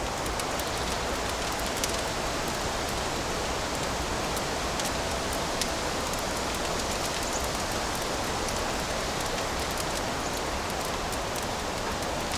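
Wood fire burning in a fireplace: a steady hiss with many small, irregular crackles.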